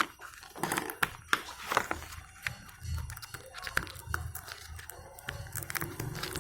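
Irregular clicks, taps and knocks from handling the plastic housing and parts of an extension board being taken apart.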